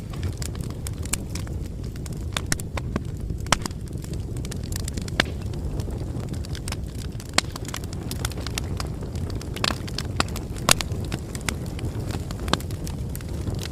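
Bonfire burning: a steady low rumble of flames with frequent sharp crackles and pops, a few louder pops standing out along the way.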